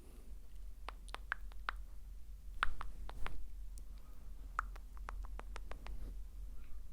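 Close-miked ASMR mouth sounds: a scattering of short wet mouth and tongue clicks, irregularly spaced, with a few louder ones.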